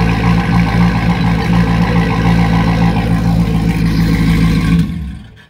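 Twin-turbo LS2 V8 of a C6 Corvette idling steadily through Blackhorse Racing 3-inch mufflers, then cutting off about five seconds in.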